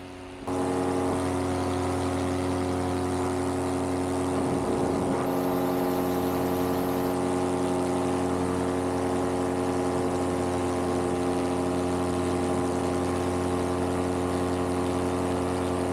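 Vittorazi Moster 185 paramotor engine, a single-cylinder two-stroke, running steadily in flight with its propeller. It comes in sharply about half a second in, and a brief high hiss is laid over it about five seconds in.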